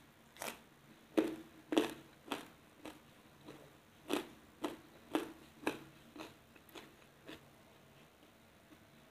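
Close-mouthed chewing of a raw jengkol bean dipped in sambal: about a dozen crisp crunches, roughly two a second, loudest at first and stopping after about seven seconds.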